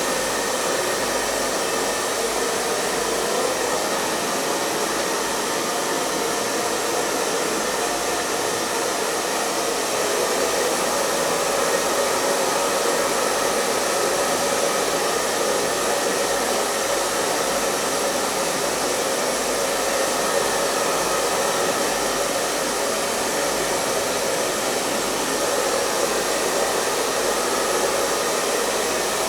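Hair dryer running steadily: an even rush of air with a faint steady hum, never changing in speed or loudness.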